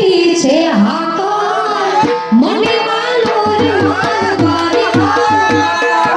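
Gujarati folk music: a sarnai (reed pipe) playing a gliding, ornamented melody over a dhol drum beat, the drum strokes growing heavier about halfway through.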